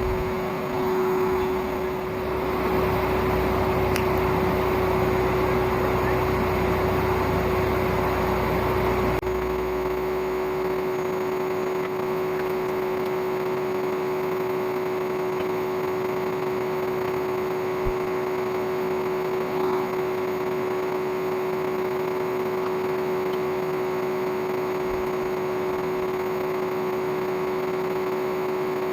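An old vacuum cleaner's motor running steadily as the air blower of a homemade coal forge, a constant whine over a rush of air. A lower rumble underneath stops about a third of the way in.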